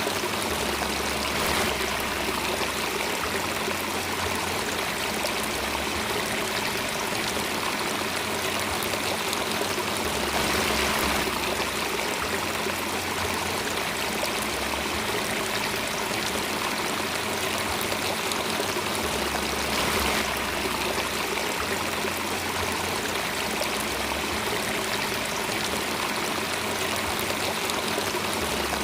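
Steady rushing of a running stream, an even wash of water sound that does not let up.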